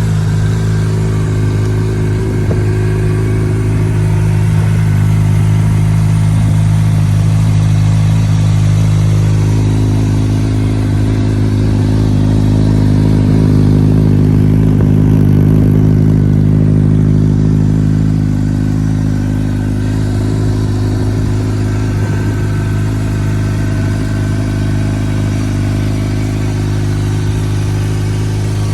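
2009 Honda CBR600RR's inline-four engine idling steadily at an even pitch, growing slightly louder in the middle and then settling back.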